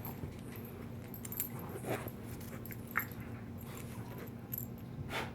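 Dogs scuffling, with tag or collar jingling, scattered clicks and a few short sharp sounds, over a faint steady hum.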